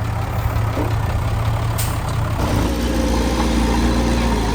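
Heavy diesel engine of earthmoving machinery running steadily; about two and a half seconds in its note drops to a deeper, heavier drone.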